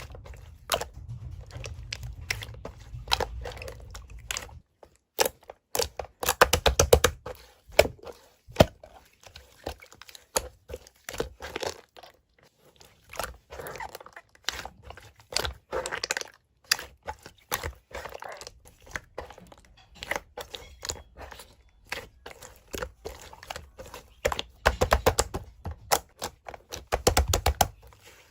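Close-up crisp crackling and clicking, with quick dense runs of clicks several times over.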